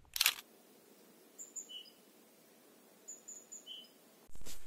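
Small birds calling in the forest: two short runs of high chirps, about a second and a half in and again about three seconds in, over a faint hiss. A brief loud noise comes right at the start.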